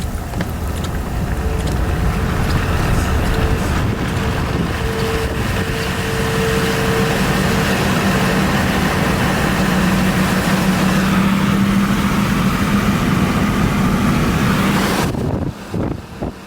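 Strong wind rushing loudly over the microphone, with a steady vehicle engine hum underneath; it cuts off suddenly near the end, leaving a few short knocks.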